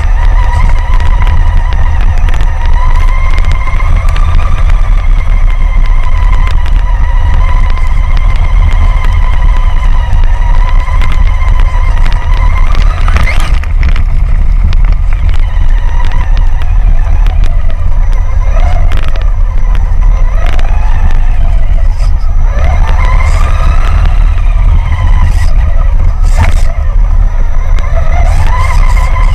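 Traxxas Summit RC truck's electric motor whining, its pitch wandering up and down with the throttle and climbing sharply in several quick bursts in the second half. A heavy low rumble runs underneath and is the loudest part, with a few sharp knocks along the way.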